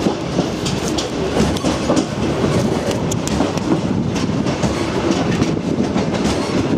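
Passenger train carriage rolling slowly, about 10 miles an hour, heard from inside: steady rumble of wheels on the track with a constant clatter of clicks and rattles from the rail joints and the carriage.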